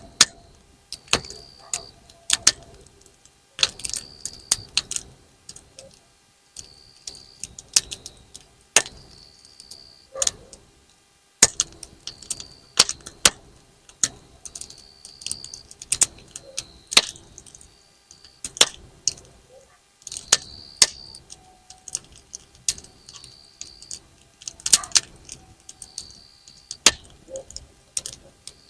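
Firewood burning in a campfire, crackling with irregular sharp pops and cracks, some as loud as bang snaps thrown on the ground, with short hisses in between.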